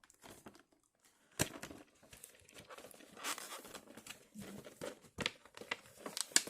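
Plastic packaging of a Nendoroid figure being worked open and pulled apart by hand: irregular crinkling and rustling with scattered sharp clicks and snaps, the loudest about a second and a half in.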